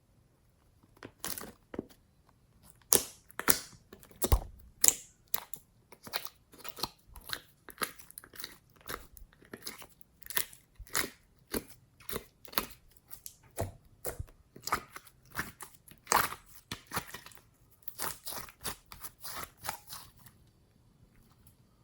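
Slime being squeezed and worked by hand, making a run of short sticky clicks and pops, about two a second, that start about a second in and stop near the end.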